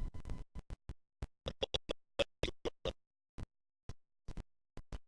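Audio cutting in and out: brief fragments of sound, two or three a second, broken up by gaps of dead silence, the stutter of a badly dropping-out recording.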